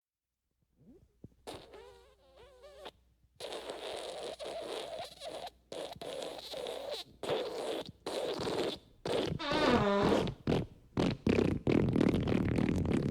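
A run of fart sound effects. After a second of silence comes a short, wavering pitched fart, then a string of rough, breathy farts broken by brief gaps. Another pitched fart comes about ten seconds in, and a longer, louder rough one starts near the end.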